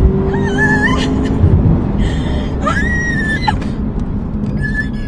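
Cadillac CTS-V Coupe's supercharged V8 pulling hard under full acceleration, a loud low rumble throughout. Over it a woman passenger screams three times, the last cry falling in pitch.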